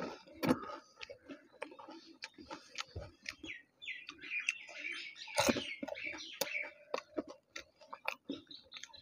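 Close-up mouth sounds of fuchka (pani puri) being eaten: crisp hollow puri shells crunching and being chewed with tamarind water, heard as irregular clicks and crunches, the loudest about five and a half seconds in.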